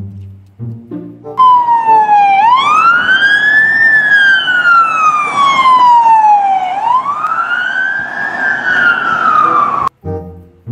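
Emergency pickup truck's electronic siren on a wail. The pitch rises quickly and falls slowly, going twice through the cycle, then cuts off suddenly near the end.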